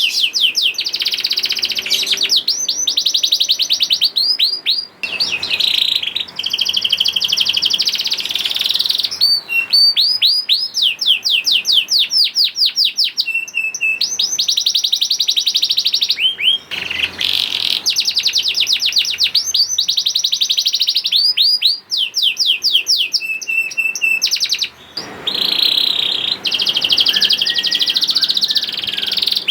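Domestic canary singing a long, continuous song of fast trills, each a rapid run of repeated sweeping notes, switching to a new trill every second or two with a few brief breaks.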